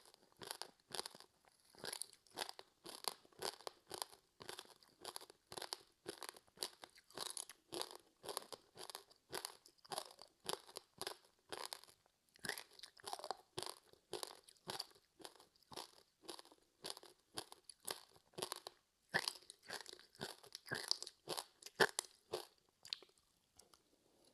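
Close-miked chewing of a crispy seaweed-wrapped rice snack: a steady run of crisp crunches, about two to three a second, with a short lull near the end.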